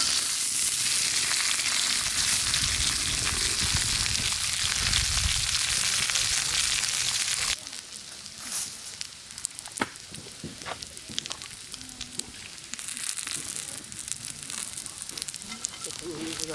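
Food frying over a campfire: a loud, steady sizzling hiss that cuts off suddenly about seven and a half seconds in. It gives way to a quieter sizzle with scattered crackles and pops.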